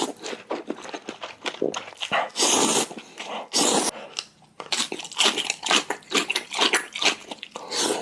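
Close-miked eating of spicy ramen: noodles slurped in two long pulls a few seconds in, then fast, wet chewing and crunching of kimchi.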